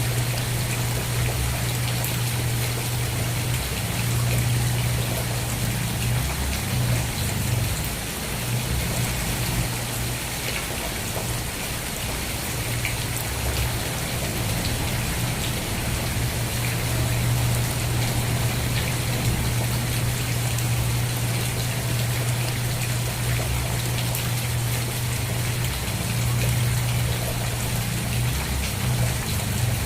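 Steady rain falling, a dense even patter of drops on a surface, with a steady low hum underneath.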